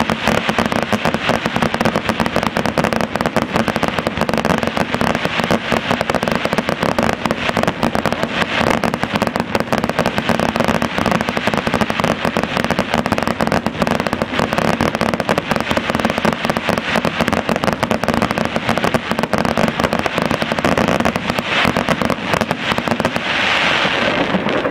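Aerial fireworks display: a dense, continuous barrage of shell bursts and crackling, the bangs coming too fast to count. The barrage stops shortly before the end.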